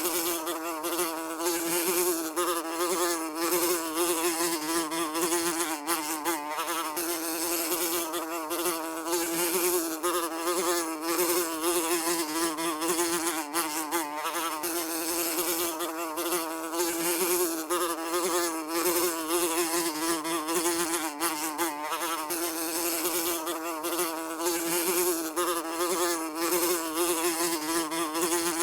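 A housefly buzzing continuously, its wingbeat hum wavering slightly in pitch without a break.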